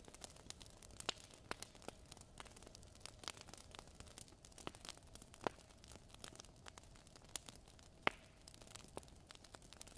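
Fire crackling in a fireplace: irregular snaps and pops over a faint hiss, with a louder pop about five and a half seconds in and another near eight seconds.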